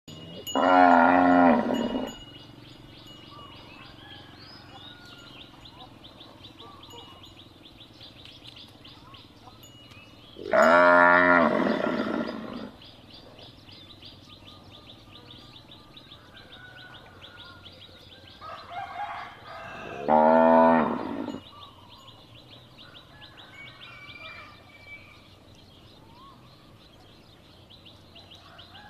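Cow mooing: three long, loud moos about ten seconds apart, with a shorter, fainter call just before the third. A steady high-pitched chirring runs underneath.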